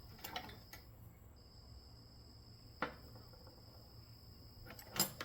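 A few faint clicks and knocks of hand tools being handled, one near the start, one about three seconds in and a sharper one near the end, over a steady faint high-pitched background tone.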